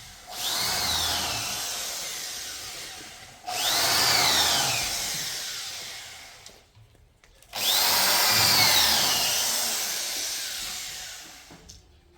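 Handheld electric power tool, drill-like, run three times in a row. Each run starts suddenly with a whine that climbs and then sinks in pitch as it fades out.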